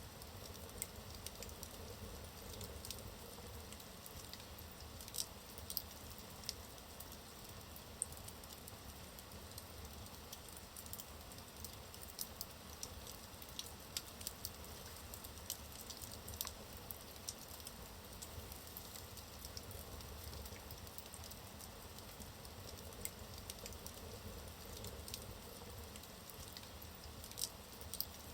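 Wood fire burning in a fireplace: a soft steady hiss with frequent small, irregular crackles and pops from the logs.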